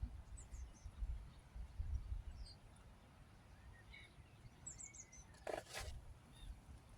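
Small birds chirping and calling now and then, with one quick high trill near the middle, over a faint low rumble. A brief noisy burst, like a rustle, comes about five and a half seconds in.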